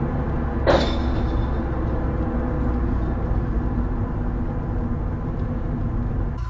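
Steady low rumble of a running vehicle with a few held engine tones, broken about a second in by one sharp, loud bang or crack; the sound cuts off abruptly near the end.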